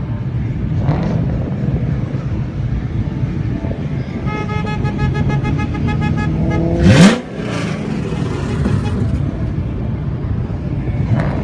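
Mustang engines rumbling. A car horn sounds for a few seconds from about four seconds in. Then an engine revs hard in a sharp rising sweep, the loudest moment, about seven seconds in.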